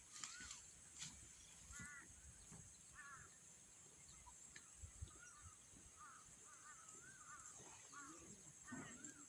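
Faint, repeated short bird calls, some rising, some in quick pairs, over a steady high-pitched hum.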